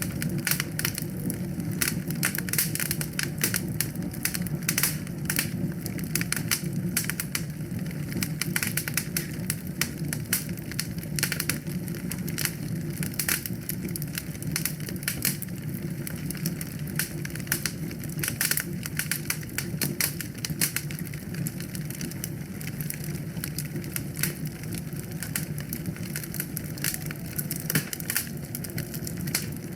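Wood fire burning in a fireplace, with a dense, continuous run of crackles and pops over a steady low rumble of the flames.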